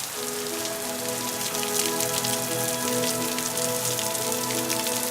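Rain falling, a steady pattering hiss, under soft held music notes that slowly build.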